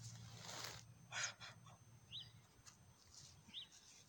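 Faint outdoor quiet with a bird chirping a few times, short high chirps spaced more than a second apart. A brief crinkly rustle near the start, as a thin plastic bag is picked up off the grass.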